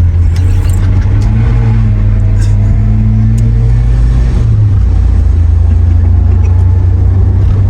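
Toyota KE70 Corolla's 4K four-cylinder engine driven hard, heard from inside the car, running loud and steady with its pitch rising for a few seconds early on.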